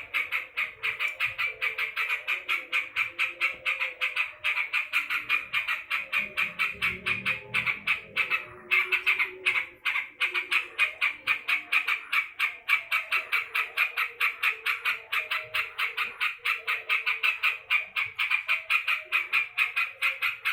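Yellow-vented bulbul (trucukan) calling in an agitated state: a rapid, unbroken string of harsh, evenly repeated notes, about five a second, with a brief break about eight and a half seconds in.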